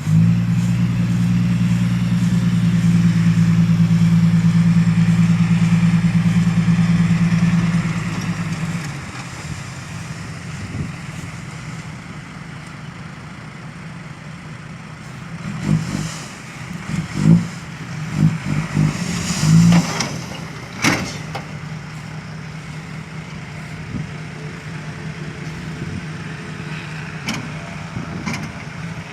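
Dump truck's diesel engine running loudly and steadily for about the first eight seconds, then dropping to a quieter hum. Midway through comes a run of sharp knocks and clunks over several seconds, before the engine hum carries on.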